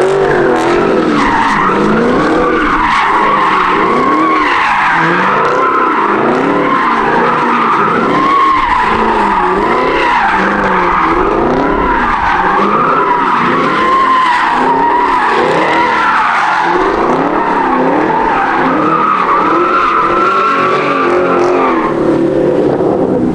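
A car's engine revving up and down over and over with tires squealing, as a car spins or skids under power; loud and continuous, the pitch swinging up and down about once or twice a second.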